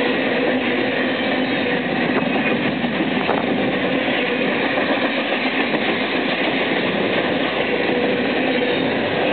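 BNSF freight train passing through a station at speed: a steady rolling rumble of wheels on rail, with a faint steady hum running under it.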